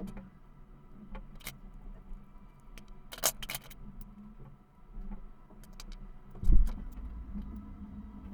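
Scattered clicks and knocks of small metal parts and tools being handled during a vacuum cleaner motor repair, with a sharp clatter about three seconds in and a heavy thump about six and a half seconds in.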